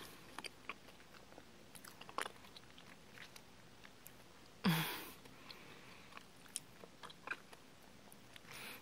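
Close mouth sounds of chewing a sour lemon candy: faint, scattered wet clicks and smacks. A short breath or voiced hum comes about halfway through.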